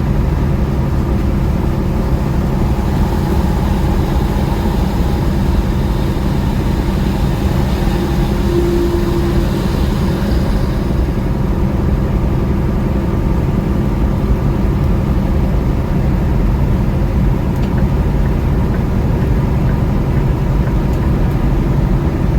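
Semi-truck's diesel engine droning steadily, with road and tyre noise, heard from inside the cab while driving in the rain. A higher hiss eases about halfway through.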